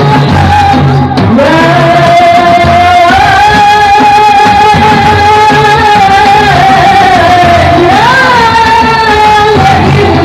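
A voice singing long held notes with ornamented turns in a Middle Eastern style, over a steady low drum beat.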